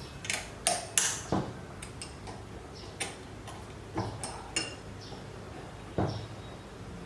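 Irregular sharp metallic clicks and clinks of metal parts and tools being handled while fitting a CNC Z-axis assembly, about eight in all, the loudest about a second in.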